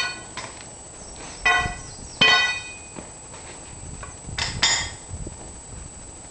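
Short, high squeaks, four in all with the last two close together, as a rebuilt hydraulic cylinder's rod and piston with new seals are pushed into the barrel.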